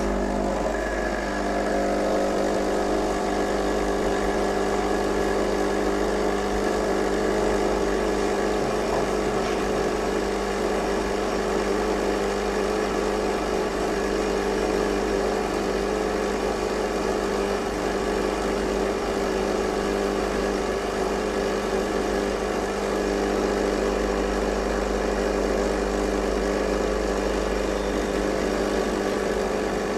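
Lelit PL92T espresso machine running its hot-water function, drawing water out of the steam boiler through the water wand to drain it: a steady hum with an even hiss of flowing water and steam.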